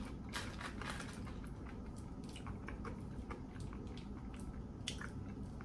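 A person chewing a mouthful of fried food with the mouth closed, close to the microphone: faint, irregular small clicks and wet mouth sounds.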